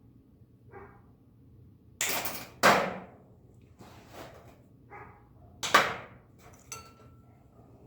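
Sharp metal snaps and knocks from cutting and handling a length of TIG rod: three loud hits, two close together about two seconds in and one near six seconds, followed by a brief thin metallic ring.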